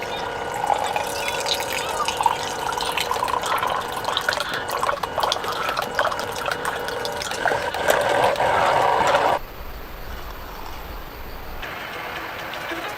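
Water running and dripping with a splashy, trickling sound, which changes abruptly to a quieter sound about nine seconds in.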